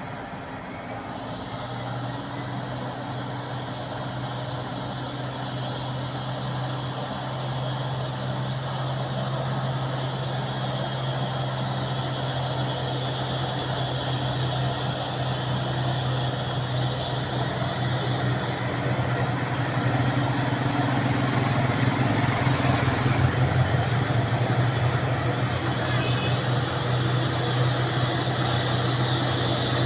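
A truck's engine running steadily, growing gradually louder.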